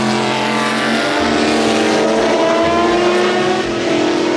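Race car engine sound, a steady engine note whose pitch drifts slightly up and down.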